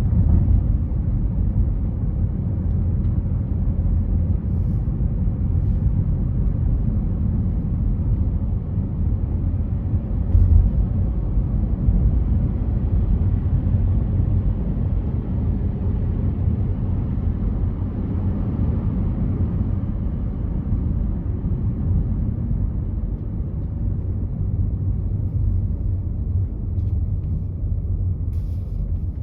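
A car driving on a freeway, heard as a steady low rumble of road and tyre noise, with a brief louder bump about ten seconds in.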